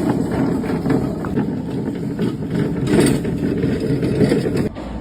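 A motor vehicle engine running at idle, a steady rough rumble that cuts off abruptly near the end.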